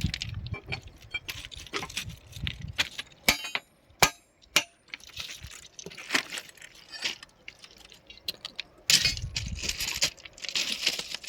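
Steel track tools (rods and crowbars) clinking and knocking against the rail and sleeper as a sleeper is lifted by hand. Irregular metallic clinks with a few sharp strikes around three to five seconds in, and a burst of scraping and rattling near nine seconds.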